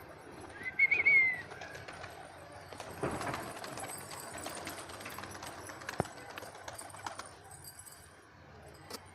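Pigeons in a loft: a brief, high, wavering chirp about a second in, then several seconds of wing flapping and scuffling with many small clicks.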